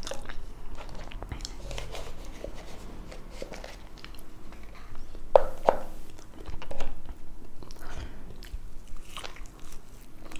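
Close-miked chewing of french fries dipped in ketchup: wet mouth sounds, soft crunches and small lip smacks, with a few louder mouth noises about halfway through.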